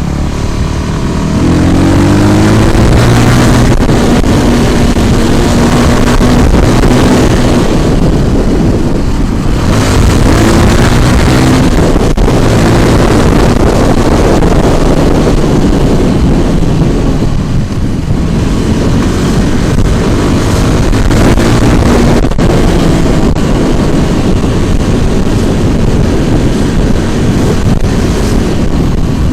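Scooter engine pulling away and running while riding in traffic, rising in pitch three times as it accelerates, under heavy wind noise on the microphone.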